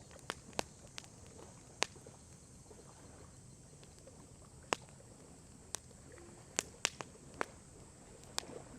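Wood fire crackling: about a dozen sharp, irregular pops and snaps of burning wood over a faint steady hiss, bunched around the middle and later part.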